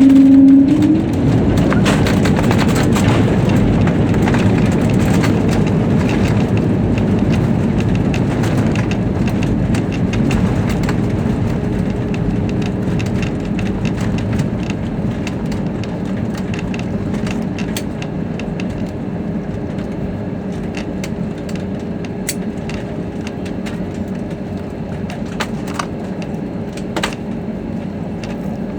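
Jet airliner cabin noise: a loud, steady rush of engines and airflow that slowly fades, with a faint steady hum and scattered clicks and rattles of cabin fittings in the second half.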